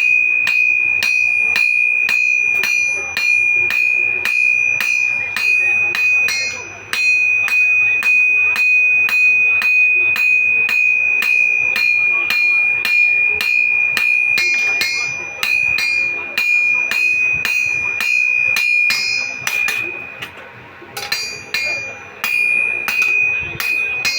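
Hammer striking metal on an anvil in an even rhythm of about two to three blows a second, each blow leaving a high, steady ringing note. The blows break off briefly near the end, then resume.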